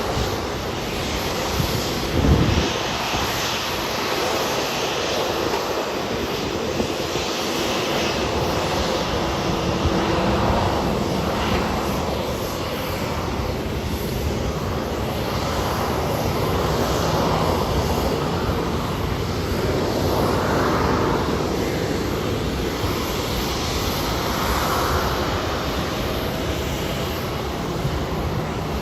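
Jet engines of a Southwest Airlines Boeing 737 just after touchdown, a steady loud rush that swells and eases slowly as the airliner rolls out down the runway. A brief low thump about two seconds in.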